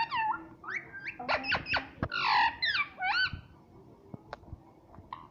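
Pet parrot calling in a rapid string of short chirps and squawks with sliding pitch for about three and a half seconds, then a few faint clicks.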